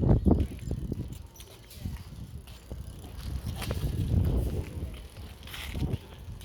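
Child's bicycle rolling close by, among uneven low rumble and scattered short knocks.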